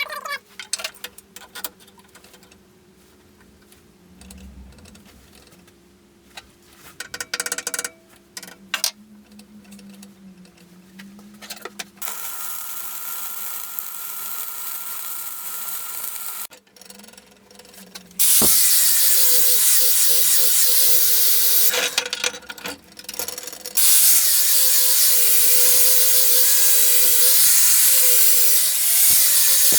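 Power tool working metal: quiet knocks and handling at first, then the tool running under load as a loud steady hiss with a wavering motor tone, pausing briefly partway through.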